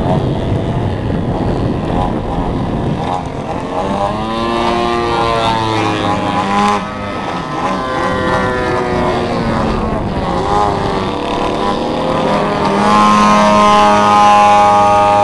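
Engine of a large-scale RC aerobatic model plane (a 104-inch Slick) in flight, its pitch rising and falling as it throttles through a manoeuvre and passes by. It gets louder and holds a steady note near the end.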